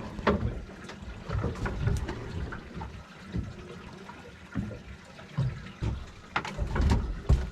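Water splashing and sloshing, with irregular low knocks and a few sharper knocks near the end.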